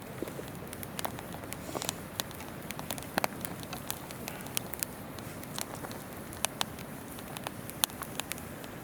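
Wood campfire crackling, with irregular sharp pops and snaps several times a second, over the steady rush of a flowing river.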